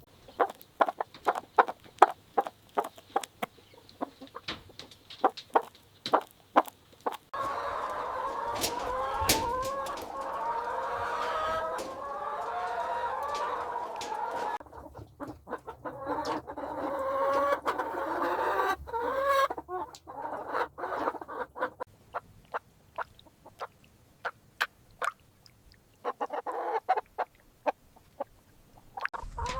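A flock of barred Plymouth Rock chickens clucking, many overlapping calls at once through the middle of the stretch. Before and after the clucking come runs of short sharp clicks.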